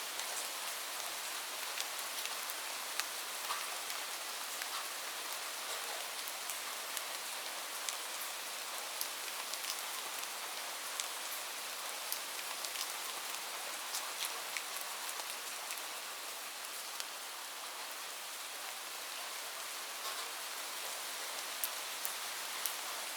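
Light rain falling steadily, a soft hiss dotted with many small, sharp drop ticks.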